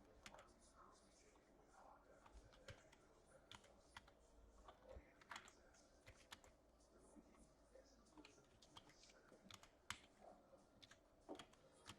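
Faint, irregular typing and clicks on a computer keyboard.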